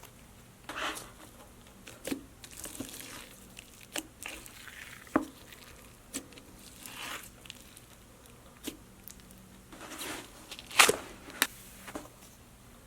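Slime being squeezed and stretched by hand: irregular wet pops, clicks and crackly squishes, with the loudest pop a little before the end.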